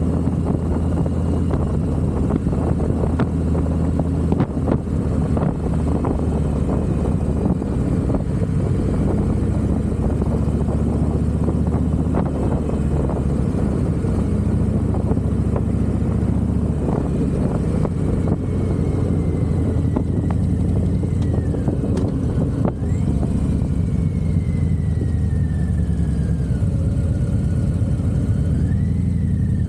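Harley-Davidson motorcycle engine running steadily while riding, heard from on the bike. A faint high whistle slides up and down through the second half.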